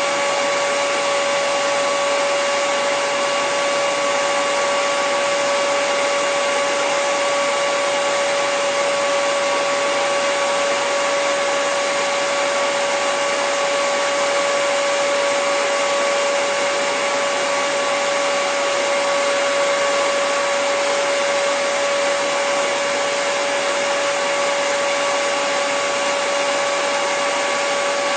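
Hair dryer running steadily: an even rushing of air with a constant motor whine, unchanging throughout.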